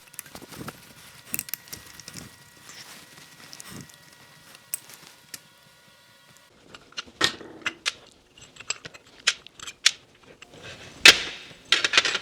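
Small metal parts of a Holley 1904 carburetor clicking and clinking as the main well's screws are taken out and the parts handled, with a few sharp clicks near the end.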